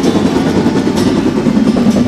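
Battery-powered toy train running along its plastic track: a steady motor-and-wheel rumble with a faint click about once a second.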